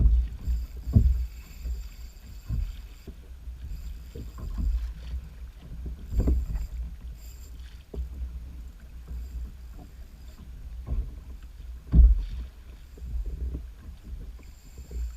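Irregular dull knocks and bumps on a fishing kayak's hull over a steady low rumble, the loudest knock about twelve seconds in.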